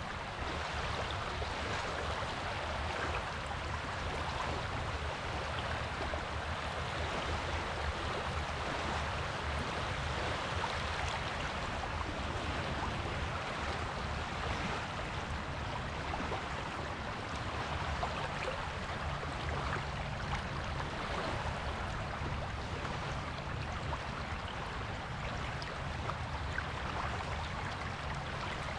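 Surf on a beach: a steady, even wash of breaking waves with little rise and fall.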